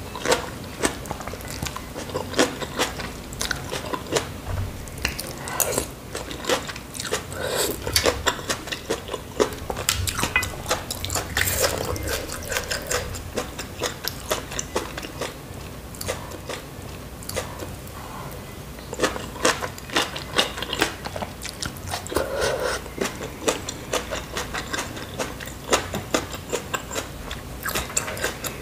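Close-miked mouth sounds of a person eating noodles: steady chewing full of sharp, wet clicks, with an occasional short slurp.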